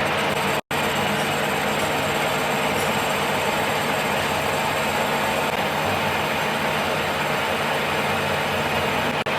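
A machine running steadily with a low hum, cutting out for an instant twice, shortly after the start and near the end.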